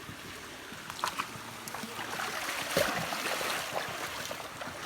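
A shallow stream running and splashing, with a few sharp knocks about a second in.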